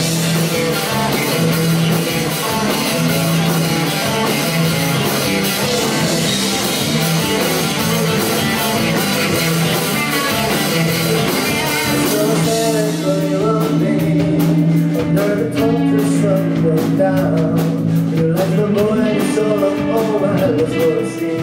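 Rock band playing live: a dense, cymbal-heavy full-band passage that thins out about two-thirds of the way through to sharp drum hits under long held notes.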